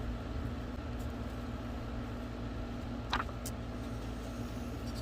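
Steady low background hum with a faint steady tone in it, and one brief higher-pitched sound about three seconds in.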